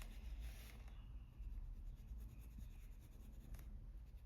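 Faint scratching of a Polychromos colored pencil stroking across paper while shading in dark indigo, over a low steady hum.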